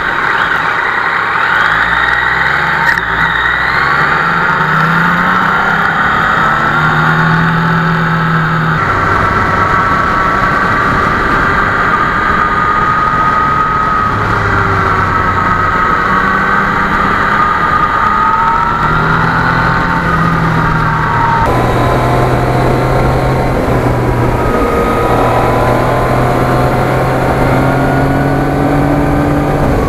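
Yamaha MT-09's 847 cc crossplane three-cylinder engine under way, its pitch rising and falling as the bike accelerates and eases off, with wind rushing over the microphone. The sound changes abruptly twice, about a third of the way in and again past two-thirds.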